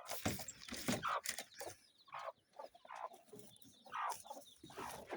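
Kienyeji chickens clucking, a string of short separate calls.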